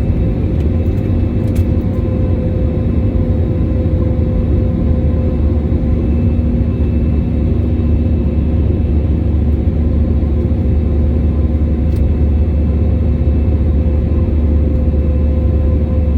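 Airliner cabin noise in flight: a steady low rumble of engines and rushing air with a constant hum over it.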